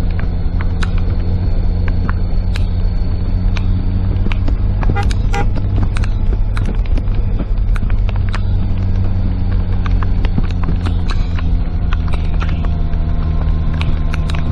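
Car engine and road noise heard from inside the cabin, a steady low hum, with scattered raindrops ticking on the roof and windshield.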